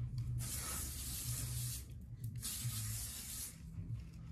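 Hair shine spray hissing out in two long sprays, the first about a second and a half, the second about a second.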